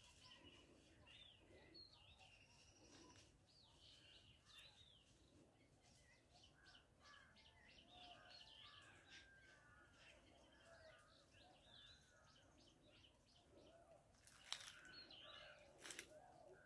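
Faint birdsong: several small birds chirping and calling in short, repeated phrases. Near the end there are a couple of brief rustling bumps.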